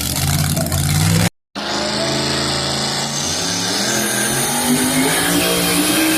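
Two-wheel-drive pulling truck's engine running hard under load. After a short break of silence about a second in, the engine note climbs slowly and steadily.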